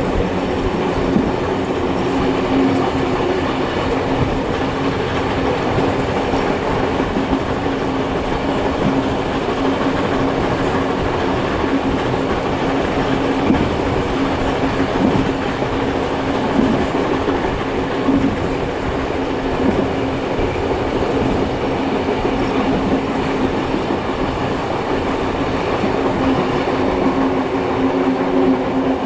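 Steam-hauled passenger train running on the rails: a steady rumble of wheels on track with a steady low hum and occasional knocks.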